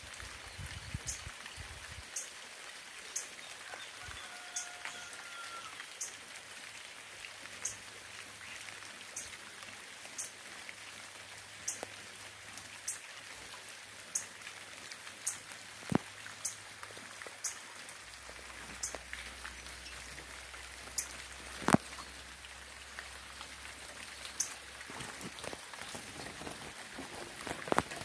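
Steady rain falling, with single large drops landing close by as sharp ticks every second or so; one drop about two-thirds through is the loudest.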